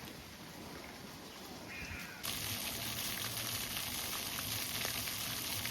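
A steady, bright hiss without pitch or rhythm starts abruptly about two seconds in, over a low background rumble.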